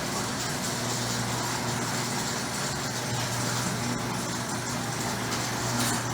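1959 Chrysler Saratoga's V8 engine idling steadily, an even hum that holds one pitch.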